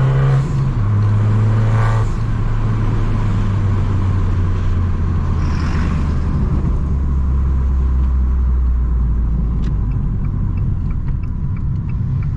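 Tuned Abarth 595 Competizione's 1.4-litre turbocharged four-cylinder running through a full 60 mm exhaust with a steady low drone, its pitch dropping in steps three times.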